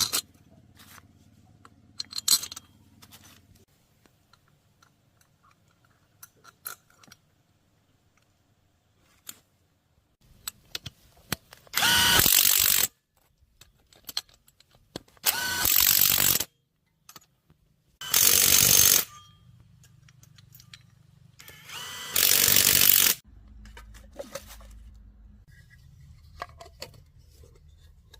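A power tool run in four short bursts of about a second each, with small clicks and taps of handling between them.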